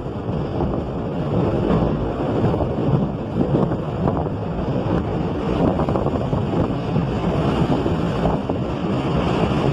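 Wind buffeting the microphone of a moving vehicle, over a steady low rumble of the vehicle travelling along the road.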